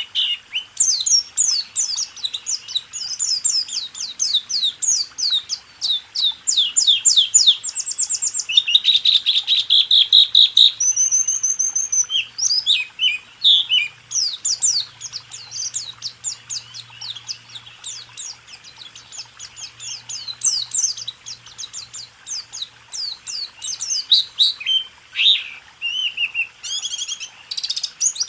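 Pleci (white-eye) singing a long, almost unbroken run of fast, high chattering notes and trills in the 'roll tembak' style, with a dense buzzy rattle about nine seconds in.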